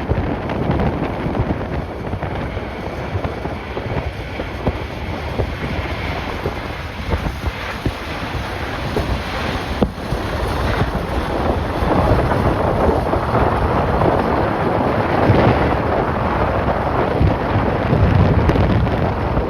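Strong gusty wind buffeting the microphone, a loud rumbling rush that grows louder about halfway through.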